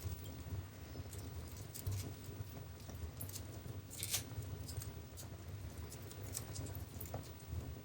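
Wood fire burning in a fireplace, crackling with irregular sharp pops over a low steady rumble of the flames; one louder pop about four seconds in.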